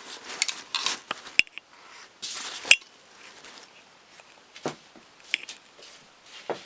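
Close handling noises: a string of sharp clicks, knocks and light clinks, with a short rush of noise about two seconds in that ends in a loud click.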